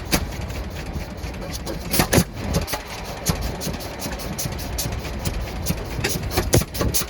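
An antique engine running, with a fast, uneven train of sharp exhaust beats over a low rumble; a few beats stand out louder, about two seconds in and again near the end.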